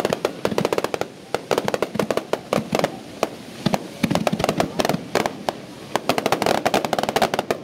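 Fireworks going off in a dense, continuous barrage: many sharp pops and crackles a second from bursting shells and crackling stars, with louder bangs among them.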